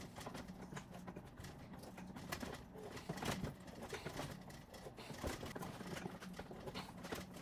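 5/16-24 threading die being worked by hand on a stud, half a turn forward and back to break off the shaving: faint irregular clicks and creaks of the cut, over a low steady hum.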